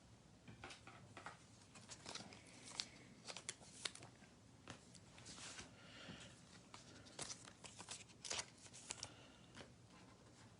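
Faint handling of trading card packs: scattered short crinkles and rustles of a foil pack wrapper and cards being shuffled.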